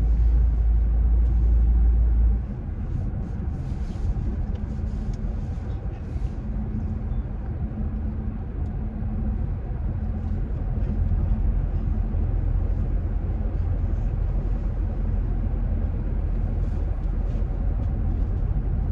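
Car driving, heard from inside the cabin: a steady low road and engine rumble, with a heavy deep drone that drops away about two seconds in.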